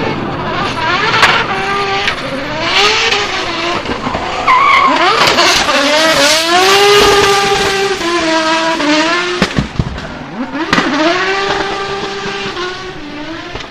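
Drift car engine revving hard, its pitch rising and falling again and again, with tyres squealing and skidding under a sideways slide. The revs drop sharply for a moment about nine and a half seconds in, then climb and hold again.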